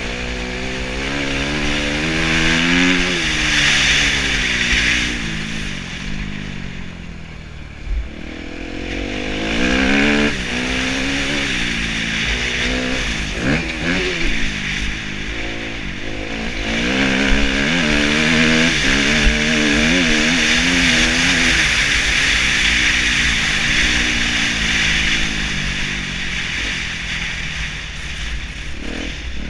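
2013 Kawasaki KX250F single-cylinder four-stroke motocross engine being ridden hard on a dirt track. It revs up repeatedly, drops in pitch at gear changes and when the throttle is rolled off, and is loudest in two long stretches of full throttle.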